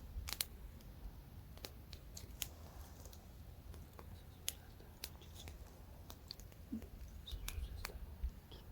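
Campfire crackling, with irregular sharp pops and snaps of burning wood over a low wind rumble that grows a little stronger near the end.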